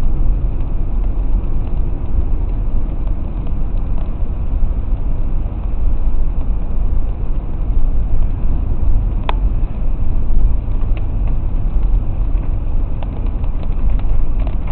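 A car driving on rain-soaked, flooded streets, heard from inside the cabin: a steady low rumble of road and tyre noise under a haze of rain and spray. Faint scattered ticks run through it, with one sharp click about nine seconds in.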